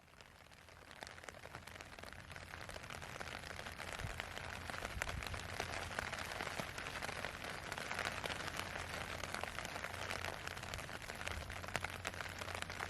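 Steady rain, dense drops pattering on a surface, swelling up over the first couple of seconds and then holding even.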